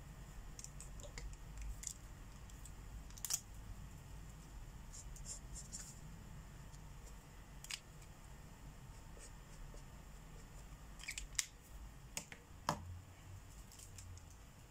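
Markers being handled while colouring: about five sharp clicks and taps spread through the stretch, with faint short scratchy strokes of marker tips on paper between them.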